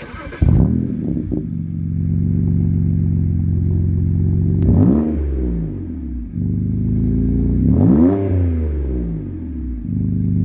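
BMW 335i's N54 twin-turbo inline-six starting up about half a second in and settling into a steady idle. The throttle is blipped twice, each rev rising and falling back to idle, at about five and eight seconds in.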